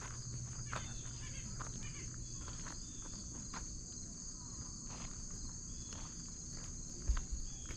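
Steady high-pitched insect chorus with scattered footsteps on an unpaved dirt trail. A brief low rumble comes near the end.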